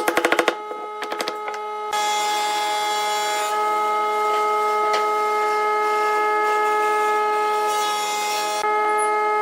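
Wood lathe running with a steady whine while a cutting tool scrapes the spinning wood. A fast run of clicks comes at the very start, and the steady cutting sound sets in about two seconds in.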